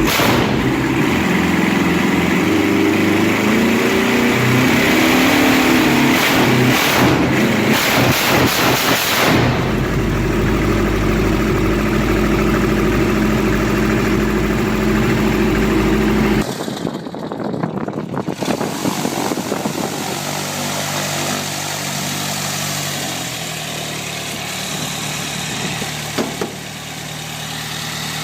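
Jabiru 2200 air-cooled flat-four aircraft engine running, in several cut-together clips. About sixteen seconds in it drops to a quieter, lower-pitched run that shifts in speed.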